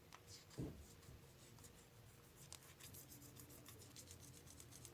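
Faint handling of a nail polish bottle: light ticks and rubbing, with one soft knock about half a second in, over a faint low hum.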